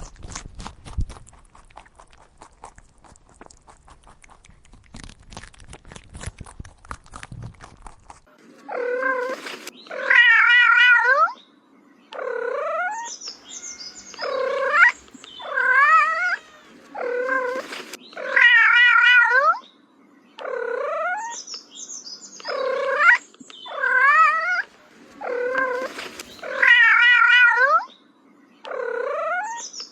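A cat meowing over and over: about a dozen drawn-out, wavering meows, starting about eight seconds in. Before them, a stretch of faint clicking and rustling.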